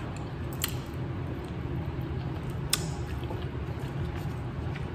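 Close-miked chewing of chicken, soft and wet, with a couple of sharp clicks, the louder one a little under three seconds in.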